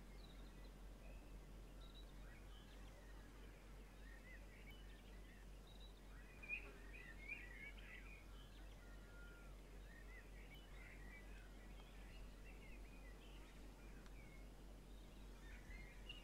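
Faint birds chirping: scattered short, high, wavering calls over a quiet background with a steady low hum.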